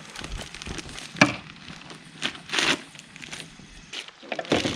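Plastic freezer bags crinkling and rustling as they are handled, in a few short bouts, with one sharp knock about a second in.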